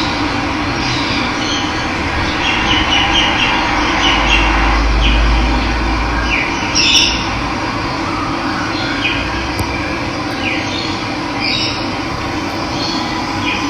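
Running water with a steady rush, and wild birds chirping and calling in short notes over it. A low rumble swells under it for a couple of seconds near the middle.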